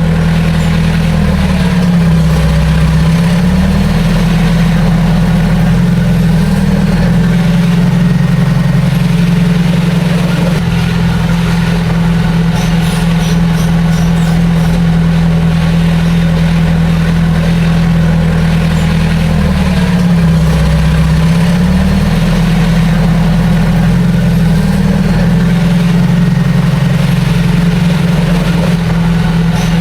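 Heavy diesel engine of earthmoving machinery running steadily. Its pitch dips briefly twice, about two seconds in and again about twenty seconds in, then comes back up.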